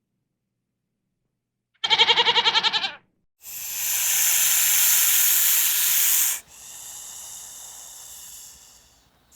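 A short quavering bleat about two seconds in, made of rapid even pulses. It is followed by a loud steady hiss of about three seconds, which drops to a quieter hiss and fades away.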